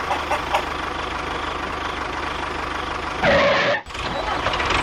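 An engine running steadily with a low, even hum. About three seconds in a louder, noisier burst with a falling tone cuts across it, then the sound drops out abruptly before the running resumes.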